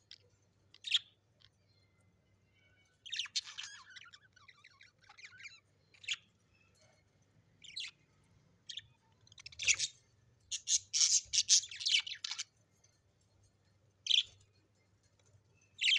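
Parrot calling in short, sharp chirps and squawks, scattered single calls with a quick run of calls about ten to twelve seconds in.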